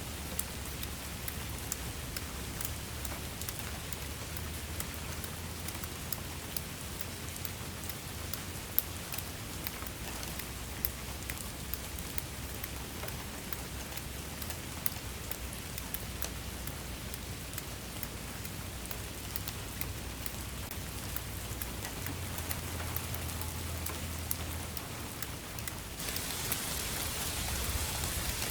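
Steady rain falling on a surface: an even hiss scattered with many small ticks of single drops over a low rumble. About 26 s in, the hiss becomes abruptly louder and brighter.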